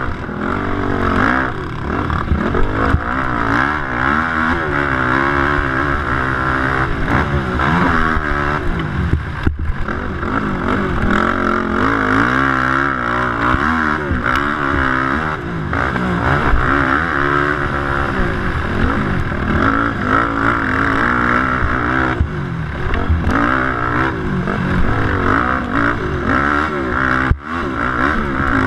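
Yamaha YFZ450 quad's single-cylinder four-stroke engine racing around a motocross track. The engine note keeps rising and falling as the throttle is worked, with brief drops about ten seconds in and near the end.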